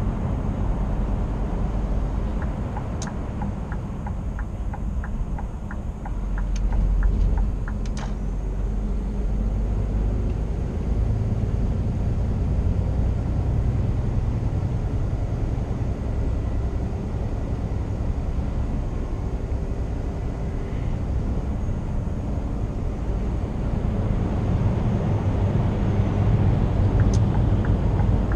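2016 Scania R490 truck on the road, heard from the cab: steady low rumble of its 13-litre straight-six diesel and the tyres. A run of light ticks a few seconds in, and a few sharp clicks.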